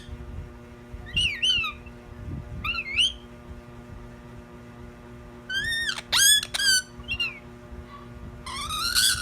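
Pet bird calling in short whistled chirps that slide up and down in pitch, in several separate bursts, with a quick cluster of calls near the middle and a longer rising call near the end. A steady low hum runs underneath.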